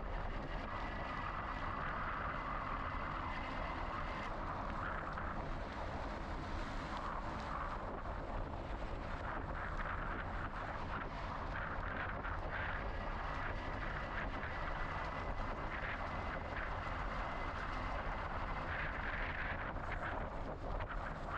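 Steady rush of wind and road noise from a moving bicycle, with no distinct events.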